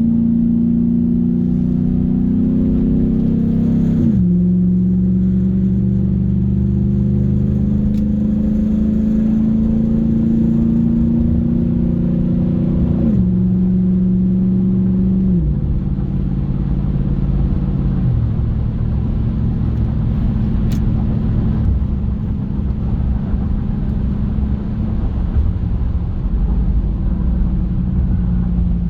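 Pickup engine running with its exhaust open after the catalytic converter, the cat-back piping removed. The exhaust note slowly climbs in pitch and then drops abruptly four times in the first two-thirds, then settles into a rougher, steadier rumble.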